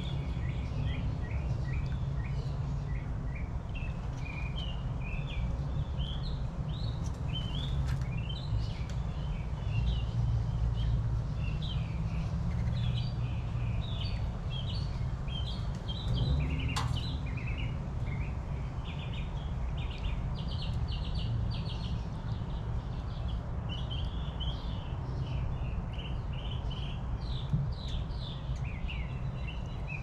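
Small backyard birds chirping and calling in quick repeated notes over a steady low rumble, with one sharp click about halfway through.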